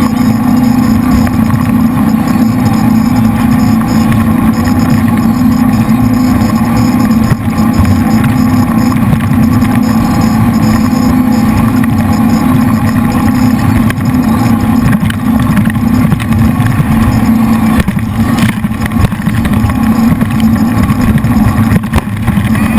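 Jet boat's V8 engines running steadily and loudly while the boat is underway, a constant low drone.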